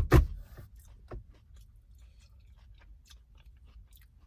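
A person chewing a bite of hot steak sandwich, with soft scattered mouth clicks. A brief loud voice sound right at the start cuts off after a moment.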